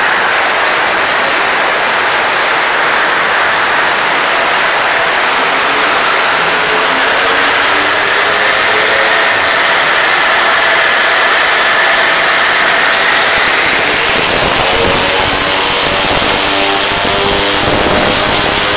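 Mazda RX-8's rotary engine revving under load on a chassis dyno, its pitch climbing steadily for several seconds over a loud hiss. About fourteen seconds in the sound turns rough and lower-pitched as the high engine note falls away.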